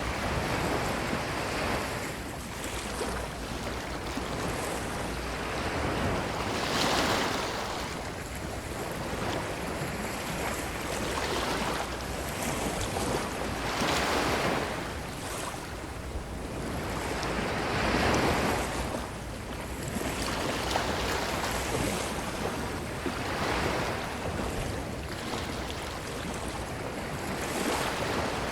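Ocean waves breaking and washing up a beach: a steady surf rush that swells with each wave every few seconds, louder surges around 7 and 18 seconds in.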